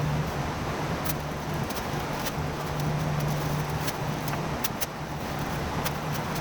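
A steady low mechanical hum with scattered light clicks.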